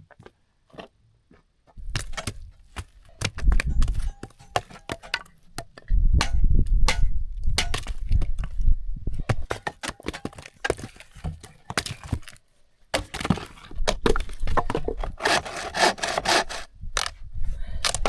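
Branches being broken up and sawn for firewood: many sharp cracks and snaps of wood, over rough rasping stretches.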